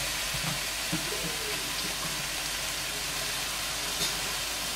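Marinated chicken pieces in green masala sizzling steadily in a hot nonstick pan, with a few soft knocks in the first second.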